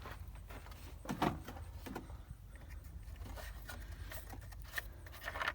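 Handling noises from a gallon jug of engine oil being picked up and readied for pouring: scattered clicks, knocks and rubbing, the loudest knock about a second in.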